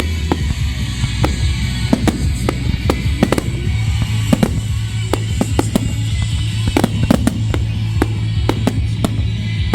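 Fireworks going off in a rapid string of sharp bangs and crackles, several a second, over loud music with a steady bass.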